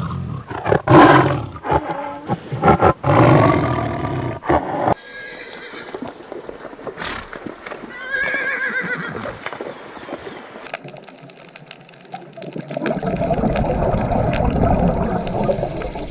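Horse whinnying, a quavering call about eight seconds in, among other loud animal calls joined one after another.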